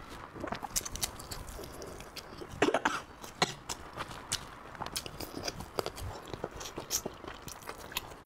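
Close-miked chewing and wet lip smacking of a person eating saucy meat off the bone, full of short sharp clicks. There is a louder burst of mouth noise about two and a half to three seconds in.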